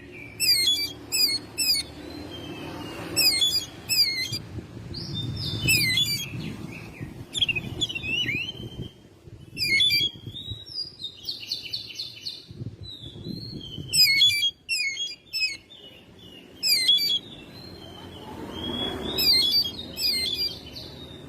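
Oriental magpie-robin singing in quick bursts of sharp, whistled notes that sweep up and down, with a harsher, buzzy phrase about midway through.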